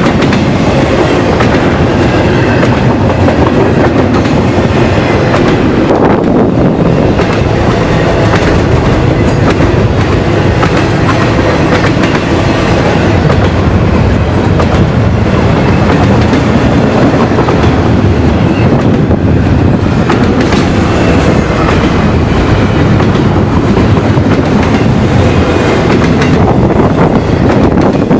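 A train rolling past, with loud, steady wheel-on-rail noise throughout.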